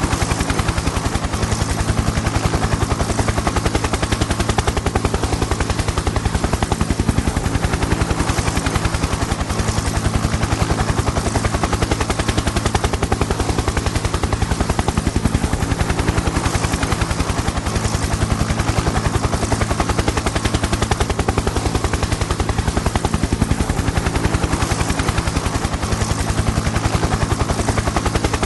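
Helicopter in flight: the rapid, steady chop of the rotor blades over a steady low drone from the engine and rotor, unchanging in level.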